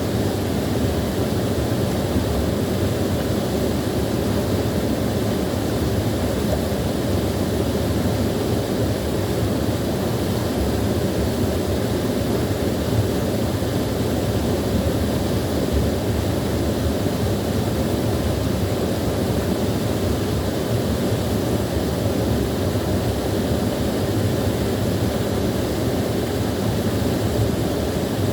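Small waterfall splashing continuously, a steady full rushing of water with a deep low rumble.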